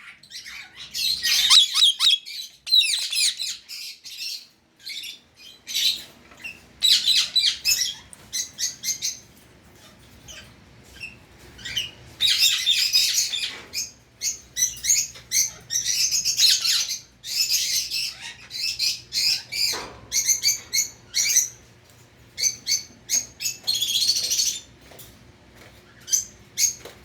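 Indian ringneck parakeet chattering in bouts of rapid, high-pitched chirps and squawks with short pauses between.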